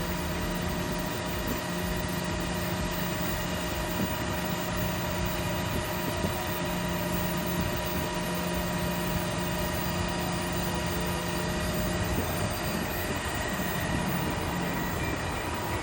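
Truck power tail's hydraulic system running steadily as the rear of the truck is lowered, a constant-pitch hum that fades out about twelve seconds in.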